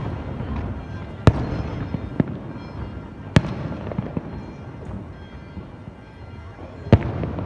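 Fireworks display exploding: three loud sharp bangs, about a second in, a little over three seconds in and near the end, with smaller pops and crackling between them.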